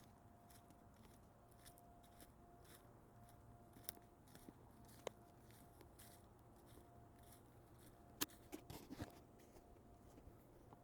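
Near silence: a faint steady hum with a few scattered sharp clicks, one about four seconds in, one about five seconds in, and a small cluster from about eight to nine seconds.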